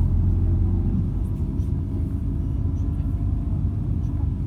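MAZ-206 city bus heard from inside the passenger cabin while riding: a steady, loud low rumble of the diesel engine and road, with faint light rattles of the bodywork.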